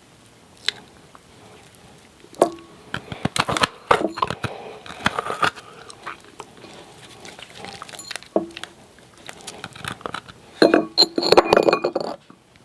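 Hard ice cubes being bitten and crunched close to the microphone, in several bursts of sharp cracking, the densest near the end.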